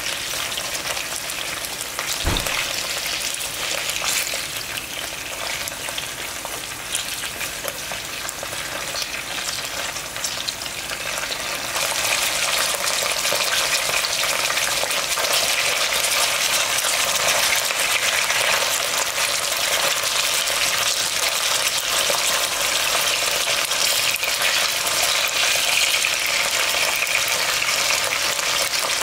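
Abalone and whole garlic cloves sizzling in hot oil in a pan, a steady frying hiss that grows louder about twelve seconds in. A brief low thump about two seconds in.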